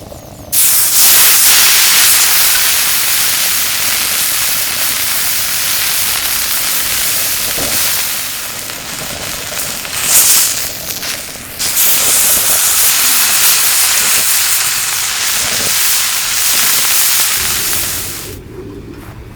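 Meat sizzling loudly on a hot grill plate set over a kerosene heater, a dense steady hiss. It starts suddenly, breaks off briefly about eleven seconds in, starts again just as suddenly, and dies away near the end.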